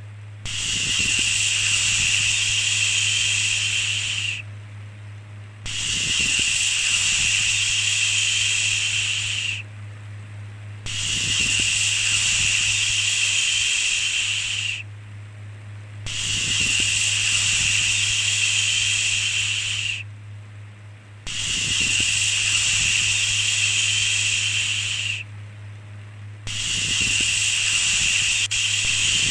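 Repeated long 'shhh' shushing, each about four seconds long with a pause of about a second between, over a steady low hum.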